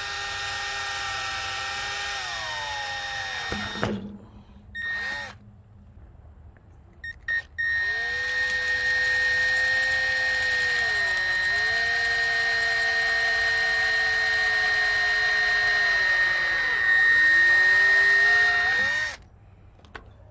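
Electric drill boring into plastic, its motor whining and dipping in pitch as the bit bites. It runs for about four seconds, stops, gives a short burst, then runs for about eleven seconds. It is loudest just before it stops near the end.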